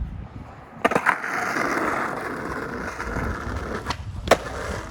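Skateboard attempting a trick: a sharp clack about a second in, wheels rolling on pavement for a few seconds, then another loud clack near the end.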